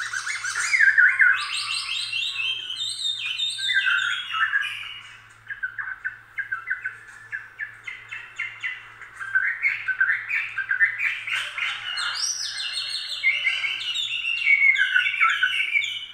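Songbird singing in long runs of rapid chirps and trills, many of them falling in pitch, with a quieter lull in the middle; the song stops suddenly at the end.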